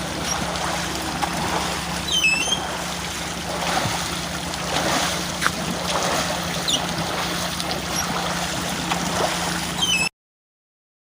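Water flowing steadily, a rushing stream or channel, with a couple of short high chirps over it. It cuts off suddenly about ten seconds in.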